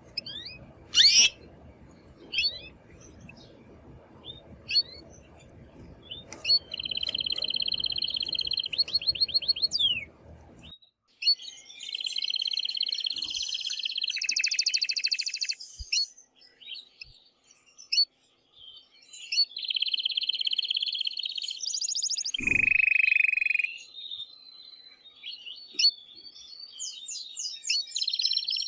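Male domestic canary singing: a few sharp separate chirps, then long phrases of fast rolling trills with short pauses between them. A faint low hum underneath stops about ten seconds in.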